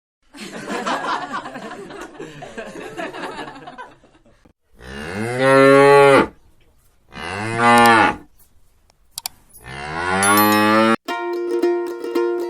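Cattle mooing: a rough, wavering call at first, then three long, loud moos. Plucked-string music starts near the end.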